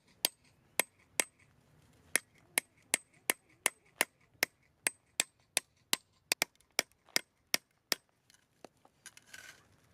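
Firewood being chopped or split with a rapid run of sharp, regular wooden strikes, about two to three a second, that turn fainter and sparser near the end.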